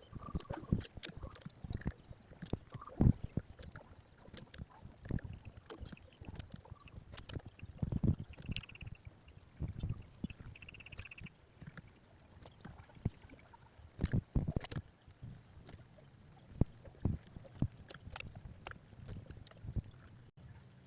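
Irregular light knocks and taps, with two short high chirps in the middle from a young sooty-headed bulbul.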